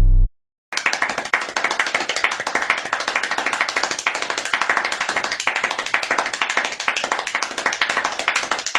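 Dense, rapid clapping-like sound, many overlapping claps with no steady rhythm. It starts abruptly just under a second in and cuts off abruptly near the end.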